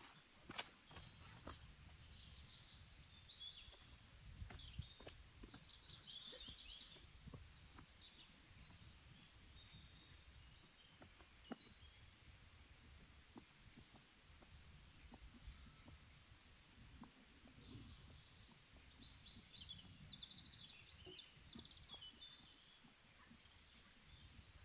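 Small birds chirping in short, scattered calls over a faint low rumble, with a few sharp clicks in the first couple of seconds.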